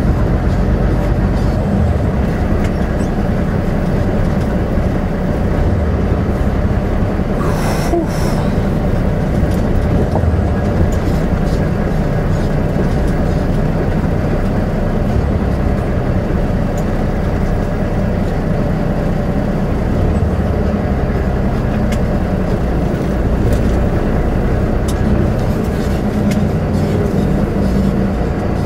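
Semi truck's diesel engine running steadily as the truck rolls slowly, heard from inside the cab, with a brief hiss about eight seconds in.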